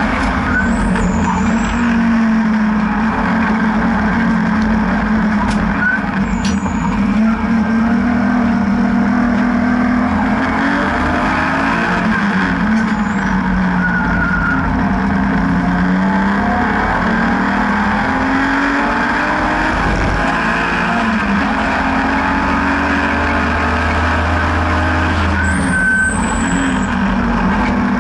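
BMW N52B30 3.0-litre naturally aspirated straight-six engine in an E36 race car under hard driving, its pitch rising and falling repeatedly as the car accelerates and slows, over steady road and wind noise.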